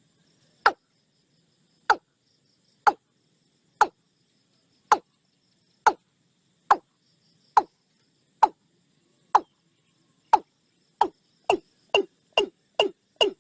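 A series of sharp knocks, about one a second, speeding up to two or three a second near the end, over faint insect chirring.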